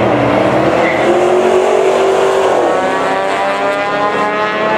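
Two hatchback cars accelerating hard down a drag strip, engines revving. The engine note holds, drops about two and a half seconds in, then climbs again.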